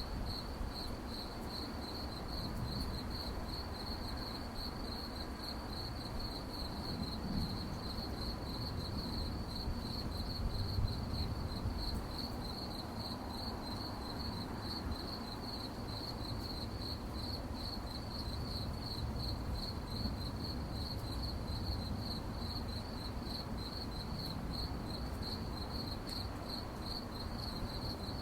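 Crickets chirping at night in a steady, even pulsing rhythm, a high trill that keeps going without a break, over a low background rumble.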